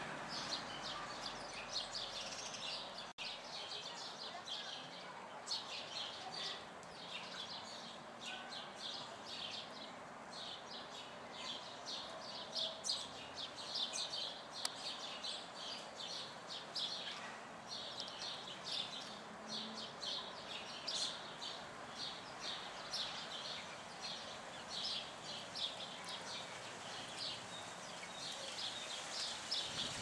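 Small birds chirping: a dense, irregular run of short high chirps over a steady outdoor hiss, with a brief dropout about three seconds in.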